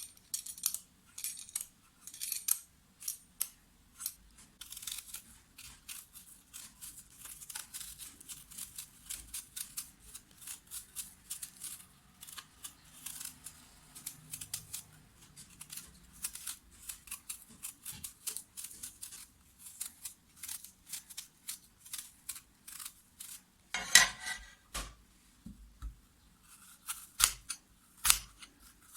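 A quick, uneven run of small sharp clicks and taps from small objects being handled, with a louder clatter about twenty-four seconds in.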